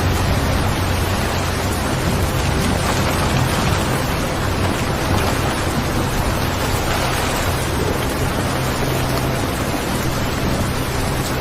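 Steady rain: an even, dense hiss of falling rain, with a low steady rumble beneath it.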